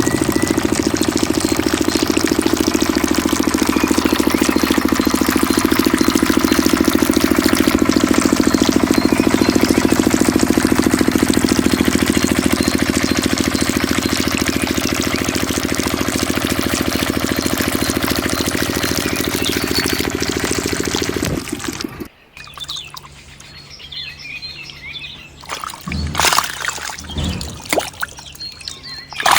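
A mini diesel engine runs a water pump with a dense, steady rattle while water pours. The engine cuts off abruptly about 21 seconds in, leaving only quieter, scattered sounds.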